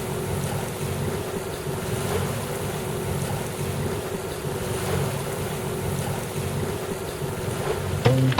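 Small sailing yacht under way on a calm sea: water washing along the hull and wind on the microphone over a steady low hum. Music starts right at the end.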